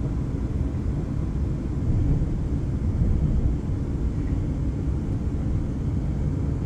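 Steady low rumble of a passenger train heard from inside the carriage as it runs along the track.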